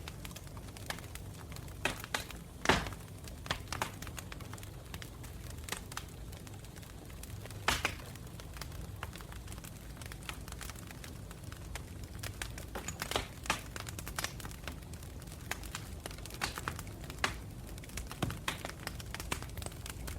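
Campfire burning: wood crackling with irregular sharp pops, the loudest about a third of the way in, over a low steady rumble of the flames.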